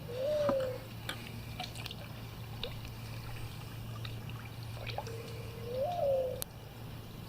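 A bird calling twice, about five seconds apart: each call is a low held note that swells up in pitch and falls away over about a second. Faint drips and ticks of water sound between the calls.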